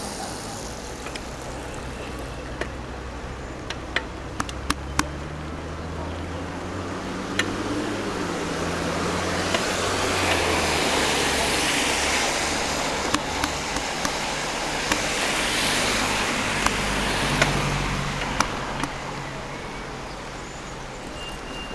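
Cars passing on a wet road: engine hum and a hiss of tyres that swells and fades twice. Scattered sharp ticks and clicks run through it.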